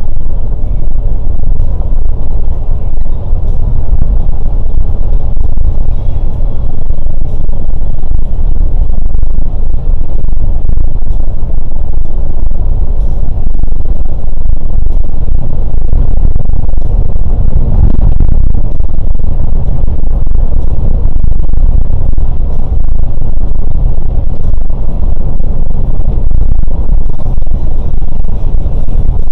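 Scania K410 coach on the move: a loud, steady low rumble of engine and road noise.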